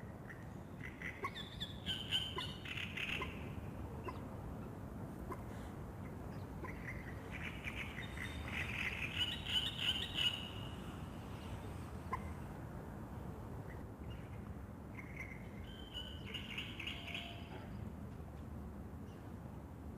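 Songbird singing in three bursts of chirping phrases, near the start, in the middle and about three-quarters through, over a steady low rumbling background.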